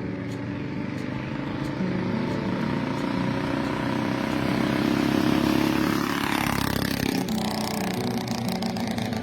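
1957 Cushman Eagle scooter's single-cylinder Husky engine running. It builds for a few seconds, then changes abruptly and drops about seven seconds in.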